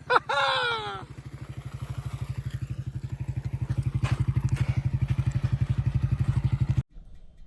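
A shout in the first second, then a motorcycle engine running with an even low beat of about a dozen pulses a second, growing louder, which stops abruptly near the end.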